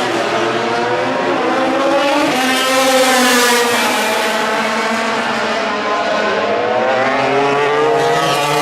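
MotoGP racing motorcycles' four-stroke engines at high revs, the pitch rising and falling as they accelerate, change gear and pass, with a rise to a peak about three seconds in.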